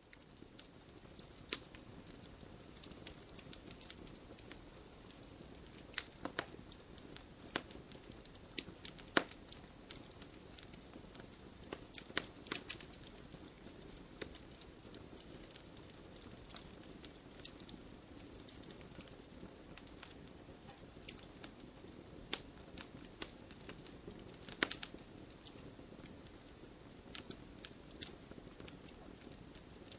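Campfire burning: a steady low hiss of the flames with irregular sharp crackles and pops from the burning wood, several at a time and some louder than others.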